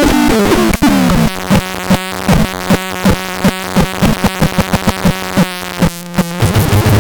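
Electronic synthesizer sound effects: a stepped, falling tone, then a steady low tone with rhythmic blips that speed up, changing to a lower, thicker tone near the end.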